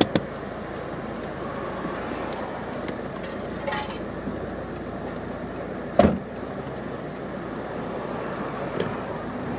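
Steady street traffic and car noise, with a few light knocks and one heavy thump about six seconds in.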